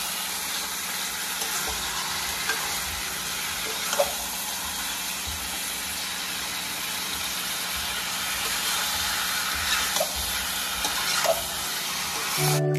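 Chicken pieces frying hard in masala in a metal kadai on a high gas flame: a steady sizzle, with a few knocks and scrapes of the metal spatula stirring against the pan. The sizzle cuts off suddenly near the end.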